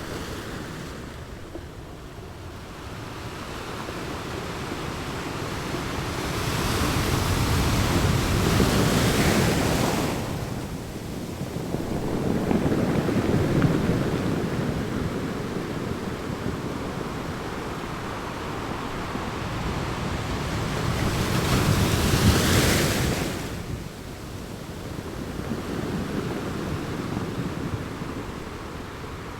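Ocean waves rolling in and breaking on the shore: two large breakers crash about 9 and 22 seconds in, each building up and then dropping away, with a smaller wave between them and steady surf wash throughout.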